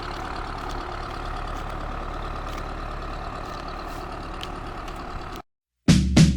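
Old tractor's engine running steadily while mowing with a rear-mounted mower attachment. It cuts off suddenly near the end, and acoustic guitar music starts.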